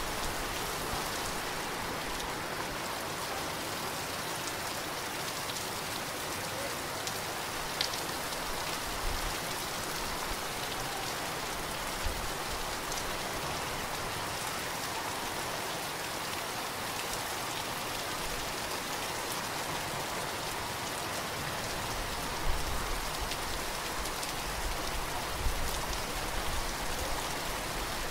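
Heavy rain falling steadily, an even hiss with a few sharper, louder drop hits scattered through it, the loudest near the end.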